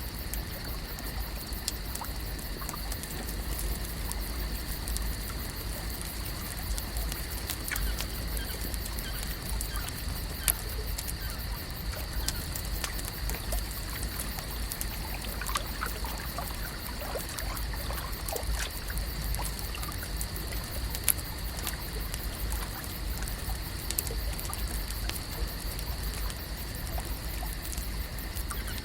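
Lake ambience: water trickling and lapping gently over a steady high-pitched drone, with scattered small clicks and a low rumble throughout.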